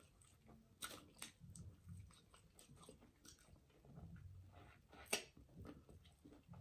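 Faint close-up chewing and biting of chicken wings: soft mouth noises with scattered small sharp clicks, the loudest about five seconds in.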